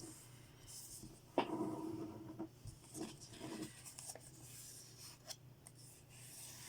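A square of origami paper being folded and creased by hand: a sudden crinkle about a second and a half in, then a few short rustles and rubs as the fold is pressed down, with faint scattered paper ticks after.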